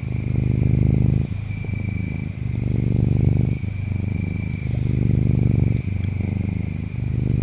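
A cat purring close up, its purr swelling and easing about once a second as it breathes in and out, over a steady high chirping of insects.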